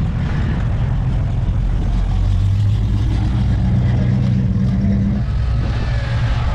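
Engine of an American classic car running at low speed as it rolls past, a deep steady rumble that is strongest about two to five seconds in, over general street noise.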